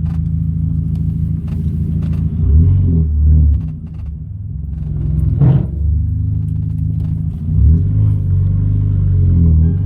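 Hyundai Genesis Coupe 2.0-litre turbocharged four-cylinder engine pulling hard through the gears of its six-speed manual, heard from inside the cabin. The pitch drops and climbs at each shift. About halfway through there is a short burst of venting, typical of the blow-off valve releasing boost on a shift.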